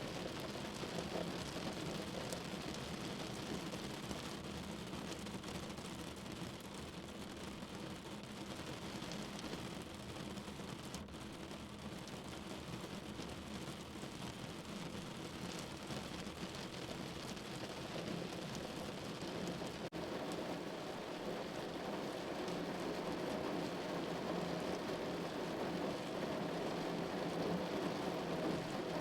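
Steady rain falling, an even hiss of drops that grows somewhat louder in the second half.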